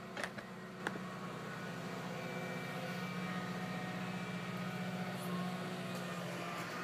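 Tractor engine running steadily, a low even hum, with two sharp clicks in the first second.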